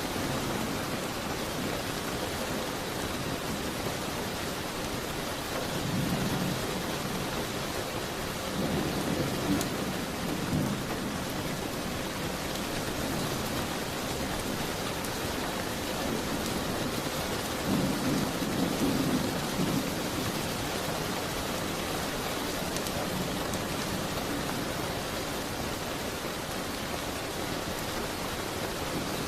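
Steady rain hissing on a window, with low rumbles swelling up three times: about a fifth of the way in, around a third of the way in, and near the middle.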